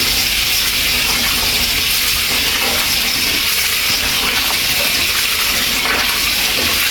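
Tap water running steadily, filling a bowl of rice for another rinse.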